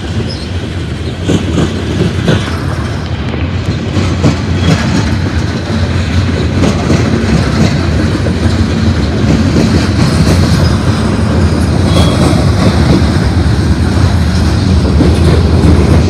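Freight train cars rolling past at close range: steel wheels clattering steadily over the rail, growing louder toward the end, with short high squeals from the wheels near the end.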